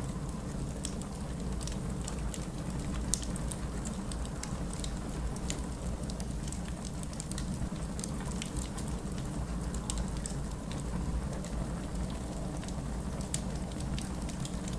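Wood fire in a fireplace crackling: irregular sharp pops over a steady low rumble, with one louder pop about three seconds in.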